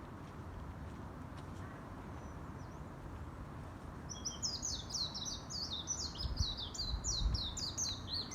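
A songbird singing: about four seconds in, a fast run of short, high notes, each sliding downward, repeated several times a second.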